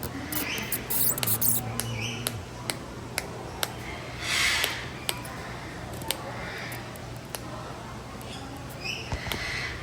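Aviary birds calling: many short chirps and clicks, with one loud harsh squawk about four and a half seconds in.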